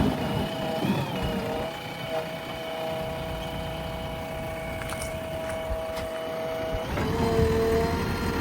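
JCB backhoe loader running under work, with a steady whine over the engine rumble that shifts in pitch about a second in and again near the end.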